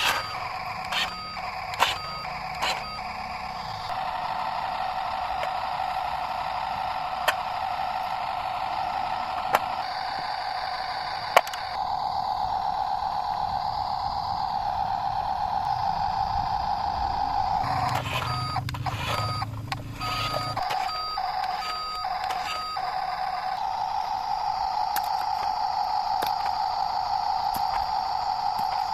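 Toy remote-control truck's small electric motor whirring steadily, with a repeating electronic beep sounding near the start and again from about 18 seconds in. There are a few sharp clicks along the way.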